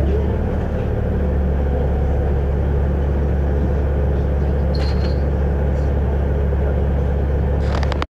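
Volvo B7RLE bus's diesel engine running with a steady low rumble, with a brief high squeak about five seconds in. The sound cuts out for an instant at the very end.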